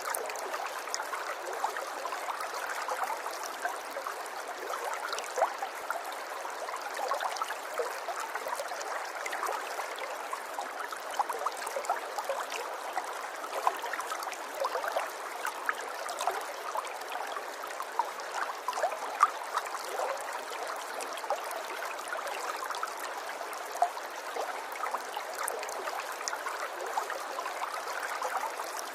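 River water babbling and trickling over stones, a steady flow dotted with many small splashes and plops.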